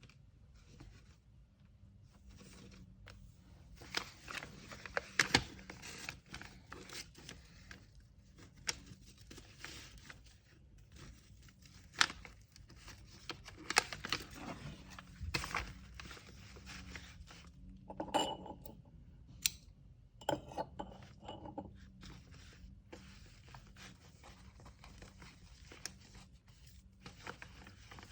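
Hands packing an order: paper rustling and tearing, with scattered light knocks and clicks of items being handled. There is a brief ringing clink a little past the middle.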